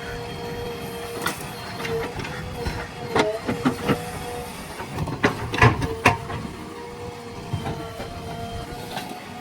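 Backhoe loader's diesel engine running steadily with a held whine, while a series of sharp knocks and clanks from the working machine comes in a cluster through the middle, the loudest about six seconds in.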